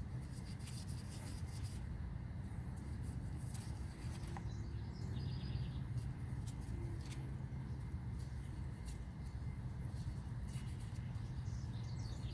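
Steady low background rumble with scattered faint clicks, and brief high chirps about five seconds in and again near the end.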